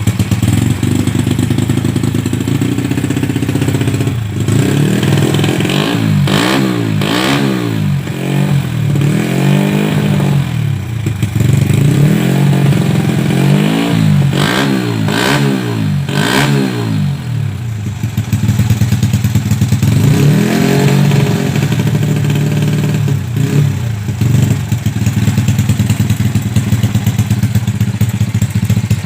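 Honda Grand 130cc single-cylinder four-stroke motorcycle engine idling through a Creampie aftermarket exhaust. The throttle is blipped repeatedly: the revs rise and fall in a run of blips from about four seconds in, then once more a little later, before it settles back to idle.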